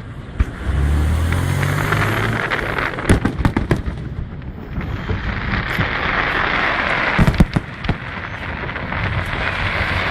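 Aerial fireworks going off: a scattered series of sharp bangs over a continuous crackling hiss. A low drone is heard briefly about a second in.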